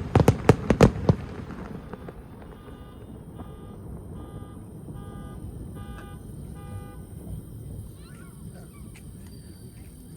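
Fireworks bursting in a quick run of sharp cracks in the first second. Then a series of six short, evenly spaced honking beeps over a low crowd murmur.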